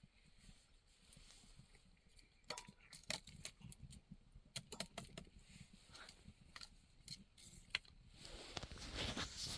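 Quiet handling noises: a string of small clicks and taps, with a louder stretch of rustling near the end.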